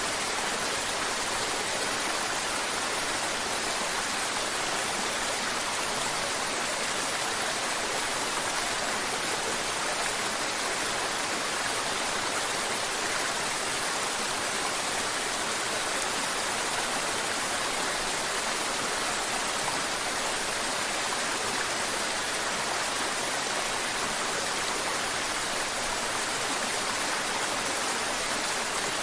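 Mountain river water babbling and flowing steadily: an even, unbroken rush of water, mostly hiss with little deep rumble.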